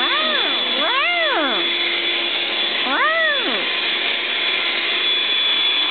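A cat meows three times, each call rising and falling in pitch, over the steady noise of a running vacuum cleaner.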